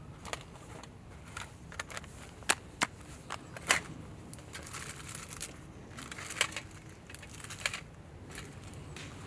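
Dry wood crackling and snapping: irregular sharp cracks and pops, the loudest a few seconds in.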